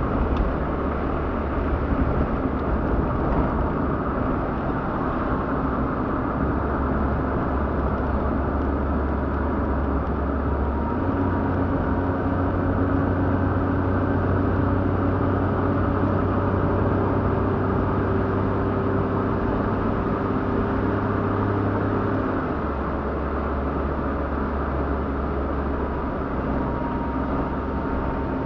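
A car running steadily with a low rumble. Its engine note steps up about a third of the way in and drops back about two-thirds of the way through.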